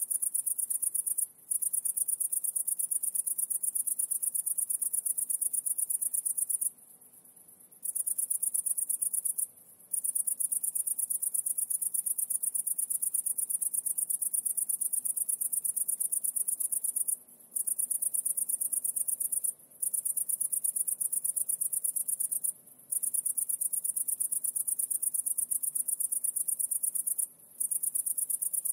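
A high-pitched, rapidly pulsing insect trill like a cricket's. It runs on with several short breaks, one lasting about a second.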